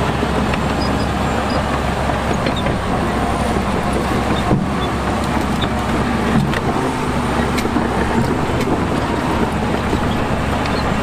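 Heavy diesel earthmoving machinery running steadily under load, with a couple of sharp knocks about halfway through.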